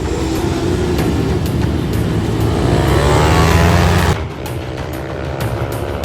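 Mini race bike engine revving hard, its pitch climbing for about two seconds, dropping sharply about four seconds in, then climbing again.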